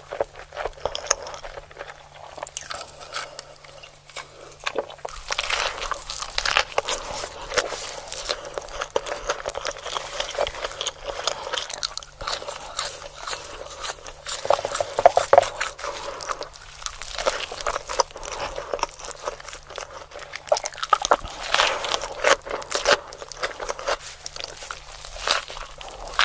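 Close-miked eating: crunchy fried chicken and a burger bitten and chewed, with a steady run of crackly crunches.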